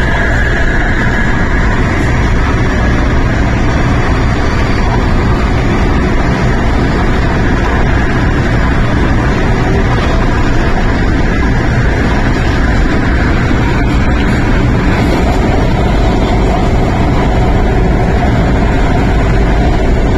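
Steady loud running noise inside the carriage of an MTR CAF electric train at speed: wheels rolling on the rails and the train's motors, an unbroken low rumble.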